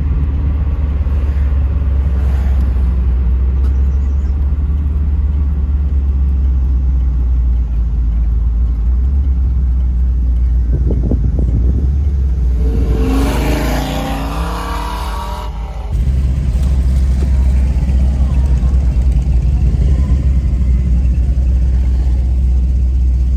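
Steady low engine and road rumble of a 1984 Pontiac Trans Am V8 heard while driving, with a brief pitched, wavering sound about thirteen seconds in.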